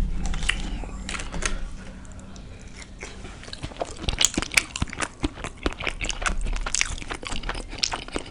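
Close-miked eating of a beef burrito: biting and chewing with wet mouth clicks, sparse at first and coming thick and fast from about the middle on.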